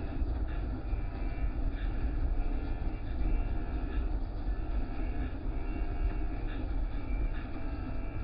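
Car wash machinery running: a steady low rumble with a noisy wash on top.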